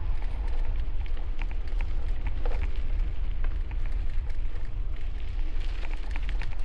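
Strong wind buffeting a helmet-mounted camera microphone while cycling: a steady low rumble with scattered light ticks and crackles.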